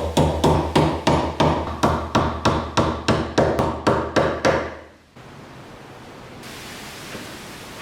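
A steady run of sharp hammer taps on metal, about three a second, fading slightly over about five seconds and then cutting off. A faint steady background noise follows.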